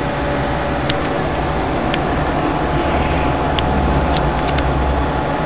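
BGA rework station blowing hot air from its nozzles with its fans running steadily, a constant rushing noise with a steady hum, while it heats a laptop chipset through its reflow profile. A few faint sharp ticks sound over it.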